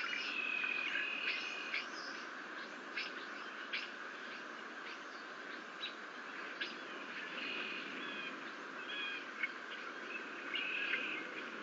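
Birds calling: repeated short chirps and brief held whistled notes over a steady background hiss and hum.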